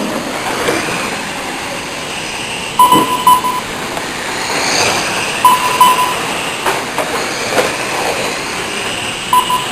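Race trucks' engines running on the track, a steady noisy rush with rising whines. Short beeps sound three times.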